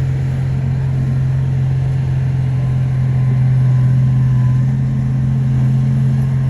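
Heavy diesel engine of earthmoving machinery running steadily with a deep, even hum, swelling slightly about halfway through.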